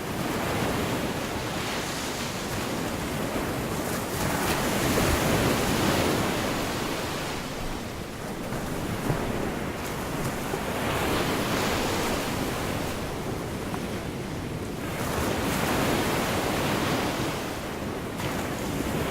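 Gulf of Mexico surf: small waves breaking and washing up the beach, swelling and fading about every five seconds.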